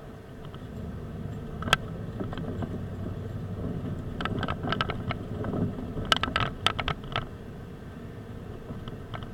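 A car driving, with a steady low engine and road hum. Over it come sharp clicks and rattles: one about two seconds in, then a cluster between about four and seven seconds in.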